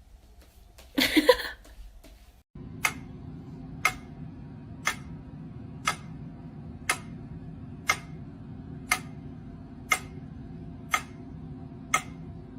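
A short, loud cry with a wavering pitch about a second in, then steady ticking, about one tick a second, over a low hum that cuts off at the end.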